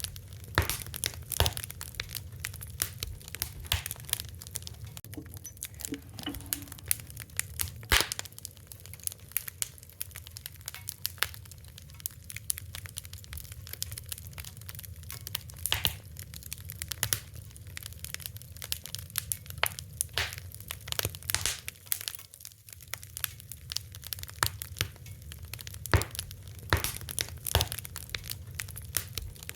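Wood fire crackling steadily, with irregular pops and snaps, a few sharper than the rest, over a low rumble.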